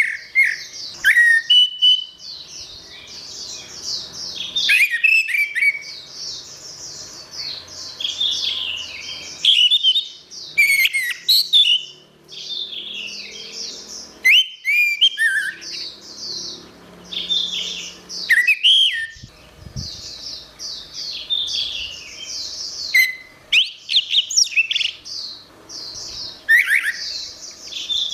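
Orange-headed thrush singing a long, varied song of quick whistled and chattering phrases, one after another with only short pauses.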